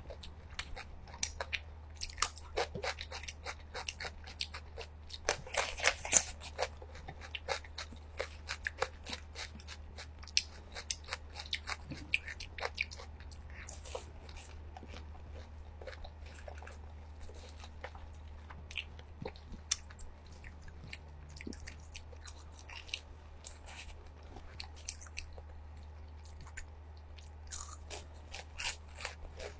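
Eating sounds: crunching and chewing of fried breaded seafood cheese balls, busy crunching for the first half, quieter sparse chewing in the middle, then fresh crunching near the end. A steady low hum runs underneath.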